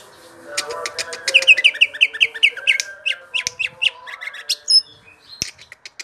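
Green leafbird (cucak ijo) singing: a fast run of sharp whistled notes, about six a second, then scattered high chips and whistles.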